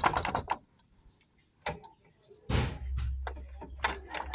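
Hand tools working on a car's auxiliary radiator fan: a quick run of ticking clicks and a few knocks. About two and a half seconds in, a short rush of noise is followed by a steady low hum.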